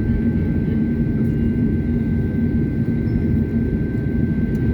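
Steady low drone of engine and air noise inside a passenger airliner's cabin, with a faint constant high whine over it.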